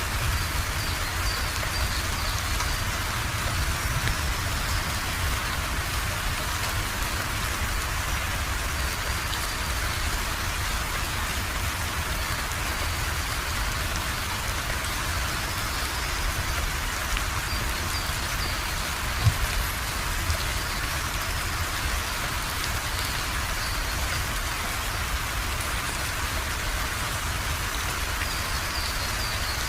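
Steady rain falling, an even hiss with a low rumble beneath it, and a single louder tap about two-thirds of the way through.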